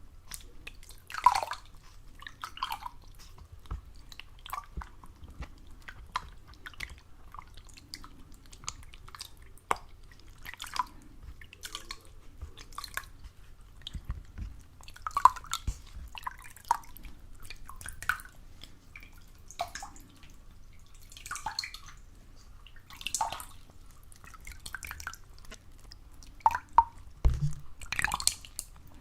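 Water dripping in single drops at an irregular pace, roughly one a second, with a few louder drops near the end.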